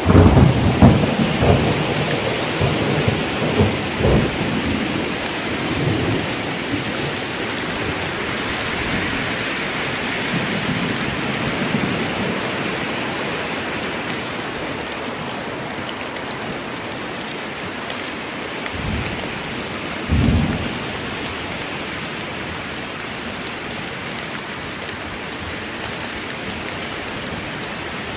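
Rainstorm in a forest: steady rain with thunder rumbling through the first few seconds and one short, louder rumble about twenty seconds in.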